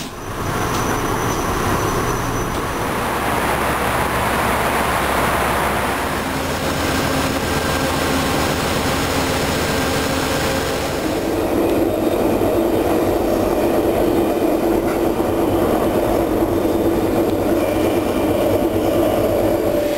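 Passenger train running on the rails, heard from inside the coach as a steady rumble. About eleven seconds in, the sound changes to a steadier hum with a couple of held tones.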